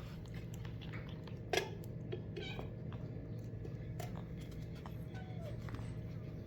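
A kitten giving a few short mews with falling pitch, the loudest about a second and a half in and a fainter one about five seconds in, with small scattered clicks over a steady low hum.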